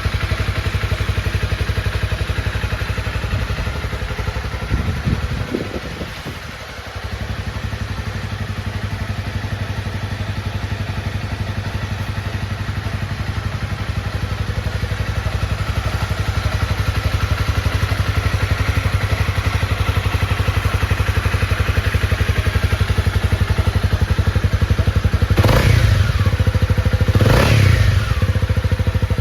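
Honda CB250R's 249 cc single-cylinder engine idling steadily. It dips briefly about six seconds in, then gets two quick throttle blips near the end.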